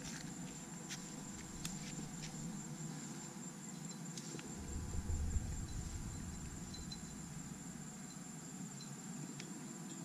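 Insects calling in a steady high-pitched drone, with a few faint clicks and a brief low rumble about five seconds in.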